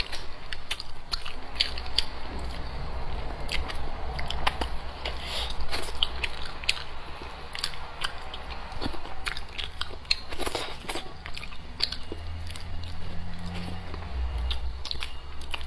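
A person biting and chewing braised pork trotter, with many short wet mouth clicks and smacks.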